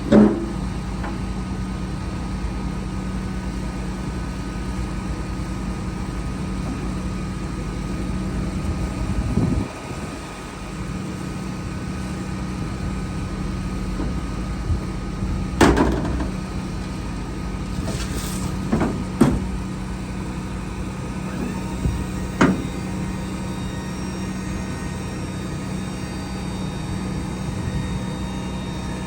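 Hino 268 box truck's diesel running steadily, a low hum with its rumble easing about ten seconds in. A few sharp knocks or clanks are heard later, three of them a few seconds apart.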